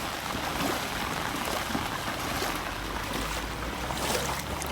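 Floodwater running across a road: a steady rushing wash, with a low rumble joining in during the last second or so.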